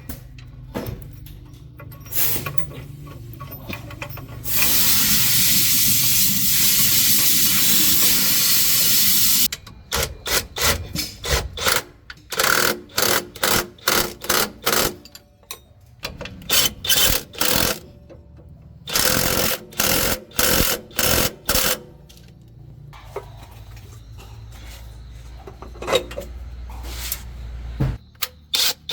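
A power tool run in many short, repeated bursts during heavy-truck clutch work, after a steady hiss lasting about five seconds.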